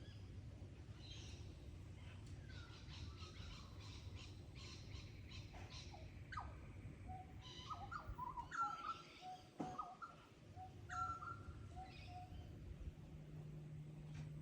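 Bush ambience of several birds calling: short chirps and trills, and a run of clear whistled notes in the middle, over a faint low rumble. A low steady hum comes in near the end.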